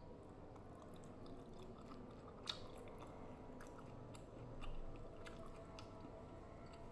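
A person chewing a mouthful of rujak (lontong rice cake, cucumber and vegetables in sambal), faint close-up chewing with small wet mouth clicks and one sharper click about two and a half seconds in.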